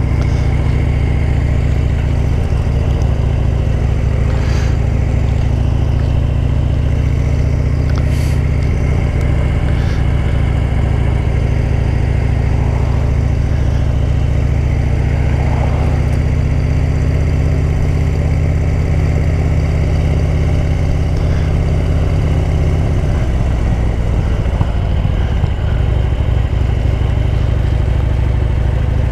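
Motorcycle engine running steadily at low speed while riding, its pitch shifting slightly around the middle and again near the end.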